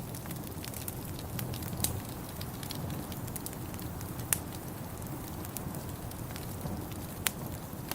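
Wood fire crackling in a fireplace: a steady low rumble with scattered sharp pops and snaps, the loudest a few seconds apart.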